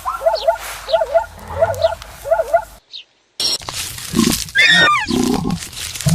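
Animal calls from two different clips: a run of short, evenly repeated calls about two a second, a brief silence a little before halfway, then louder, longer calls from another animal.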